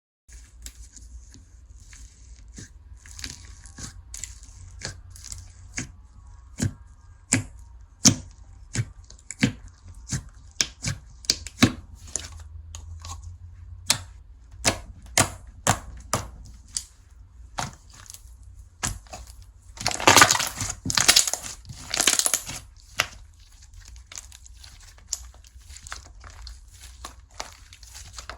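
Slime being squeezed and stretched by hand, giving off sharp clicks and pops, with a denser crackling run about two-thirds of the way through.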